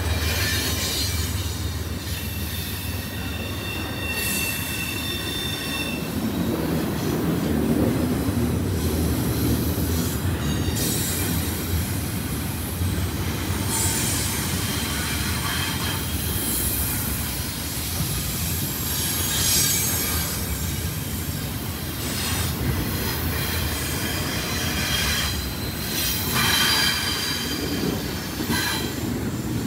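CSX freight train cars rolling past with a steady low rumble, their wheels squealing in high-pitched bursts that come and go, with now and then a sharp knock.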